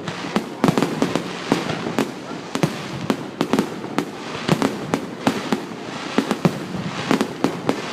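Fireworks display: a rapid, irregular run of sharp bangs, several a second, over a steady background of noise.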